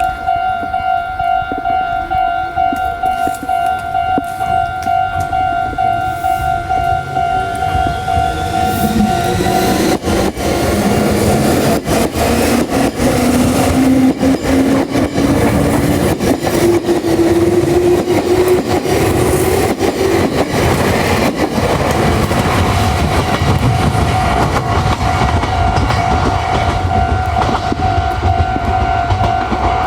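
Meitetsu 2000 series 'μSKY' electric train accelerating past, its motors whining with a steadily rising pitch while the wheels click over the rail joints. A level-crossing bell rings a steady pulsing tone, drowned out while the train goes by and heard again near the end.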